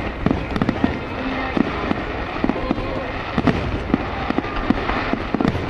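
Fireworks bursting in quick, irregular succession: many sharp bangs, a dozen or more, over a constant background rumble.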